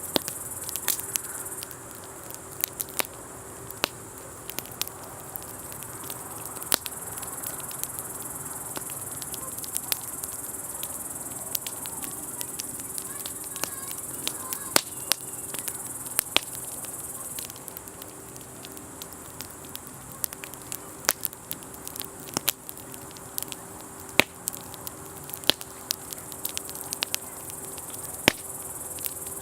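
Wood campfire crackling with sharp, irregular pops, over a steady high chorus of crickets that thins out about halfway through. A faint steady low hum runs underneath.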